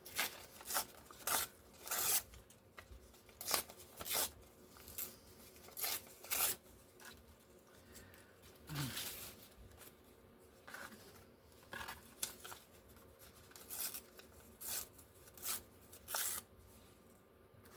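Scissors cutting paper: a string of short, crisp snips at an uneven pace, about twenty in all.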